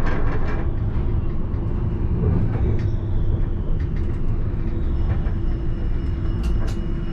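Alstom Citadis tram running on its rails, heard from the driver's cab: a steady low rumble of wheels and running gear with scattered clicks and knocks. A faint high whine falls in pitch and then holds steady from about five seconds in.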